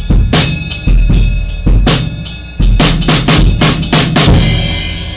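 Drum kit playing a loud beat of kick and snare hits, then a quick fill of strokes that ends in a cymbal crash ringing out and fading near the end.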